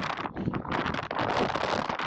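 Strong wind buffeting the microphone, a loud rough rushing with irregular crackles, easing briefly about half a second in.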